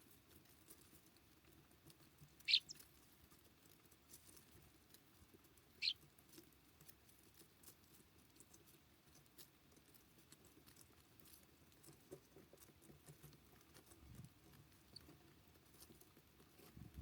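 Small birds at a feeder: faint scattered pecking and pattering, with two short, high, downward-sweeping bird calls, the first about two and a half seconds in and the second about six seconds in.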